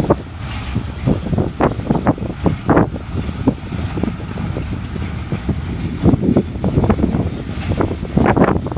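Norfolk Southern freight train passing, a loud steady rumble broken by many irregular sharp knocks and clanks.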